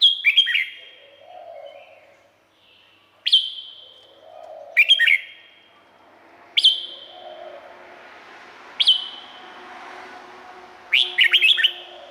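Red-whiskered bulbul singing: short, loud whistled phrases about every two seconds, each built of sharp notes that drop in pitch.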